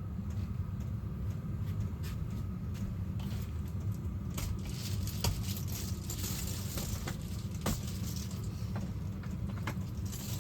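Wood stove fire crackling: sharp, irregular pops and ticks over a steady low rumble.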